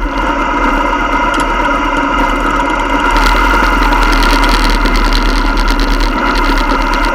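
Motorcycle engines running steadily, a little louder from about three seconds in.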